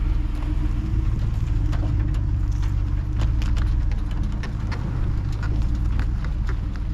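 A vehicle's engine running steadily while driving, a continuous low rumble with scattered sharp clicks and rattles over it.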